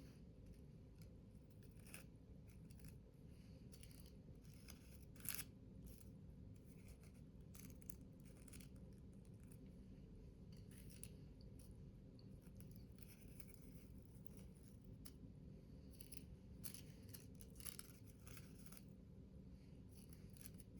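Paper being cut and handled: quiet, scattered snips and rustles over a low steady hum, with one sharper snip about five seconds in.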